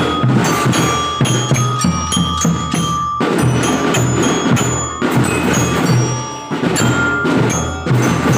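Marching drum band playing its first piece: a bell-lyra (marching glockenspiel) melody over snare and bass drums on a steady beat.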